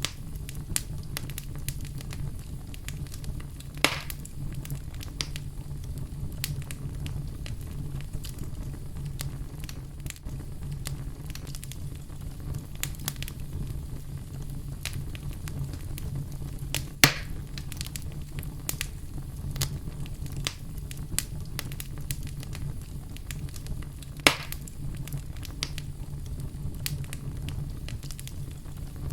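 Wood fire burning in a fireplace: a steady low rumble of flames under constant small crackles, with three louder pops of the burning wood, the loudest about halfway through.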